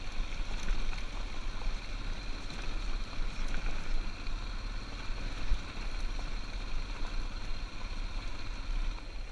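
Yamaha 500cc single-cylinder trail bike engine running steadily under load as it climbs a stony track. A heavy low rumble, like wind buffeting the on-bike camera microphone, runs under it.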